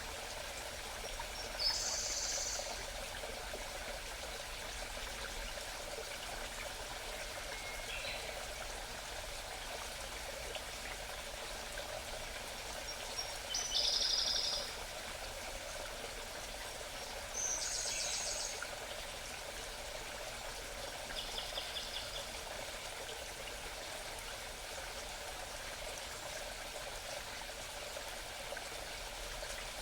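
A small mountain stream babbling steadily, with a songbird singing short, high, trilled phrases five times at intervals of a few seconds.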